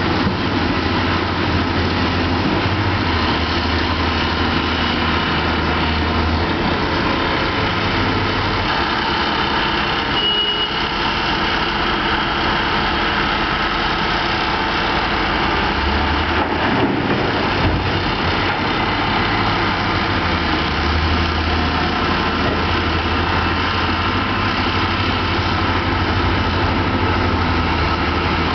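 Heavy diesel mining machinery, a Cat 5080 hydraulic shovel and a Cat haul truck, running continuously during truck loading. The deep engine drone swells and eases a few times as the load changes.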